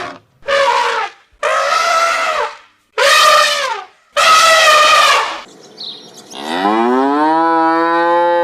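Cattle mooing: four short calls of about a second each, then a longer, lower call that rises in pitch and cuts off near the end.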